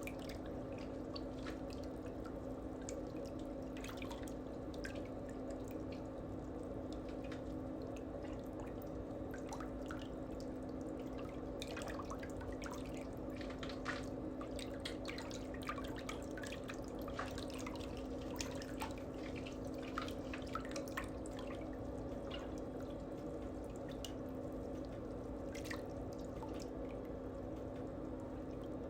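A steady low hum with many light, irregular clicks and ticks over it.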